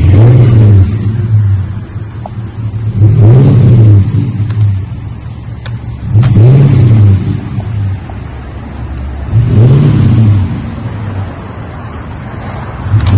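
2022 Ford F250's 6.2-litre gas V8 heard through a custom cat-back dual exhaust with a Magnaflow single-in/dual-out muffler, revved four times about three seconds apart. Each rev rises and falls in about a second, dropping back to a quieter idle between.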